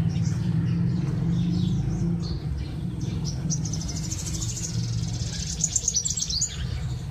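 Small birds chirping, with a fast trill of rapidly repeated high notes from about three and a half to six and a half seconds in, over a steady low rumble.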